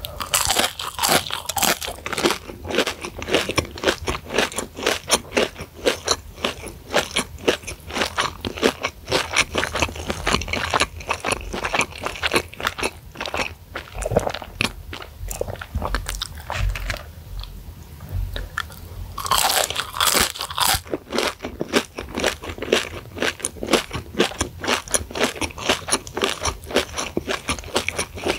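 Close-miked crunching and chewing of a deep-fried Kanzler crispy chicken stick dusted with chili flakes: a crisp bite at the start, then steady crunchy chewing, with another burst of loud crunching about twenty seconds in.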